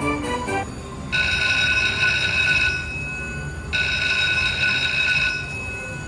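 Slot machine's electronic jackpot alert: a short run of jingle notes, then a steady high multi-pitched tone that sounds twice, each time for about two and a half seconds, signalling a jackpot.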